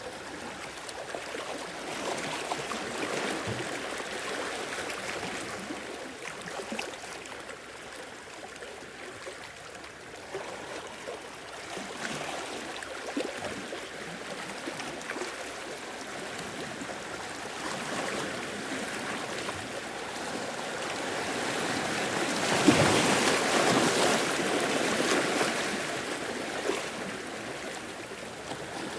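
Sea waves washing in and draining back, a continuous surge that rises and falls, with the largest swell a little over twenty seconds in.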